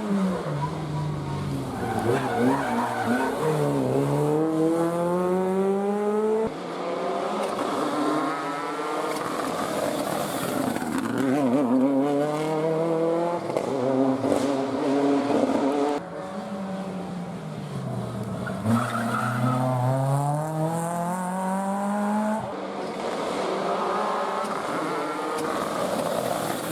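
Rally cars at full throttle on a special stage, one after another. Engine pitch climbs hard and drops back at each gear change.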